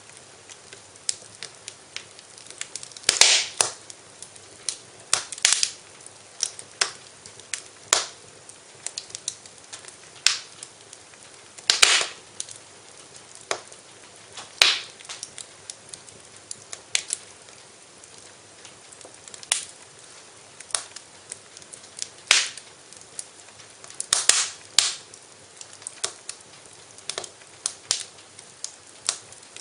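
Wood fire crackling in a fireplace: irregular sharp pops and snaps, a few much louder than the rest, over a faint steady hiss.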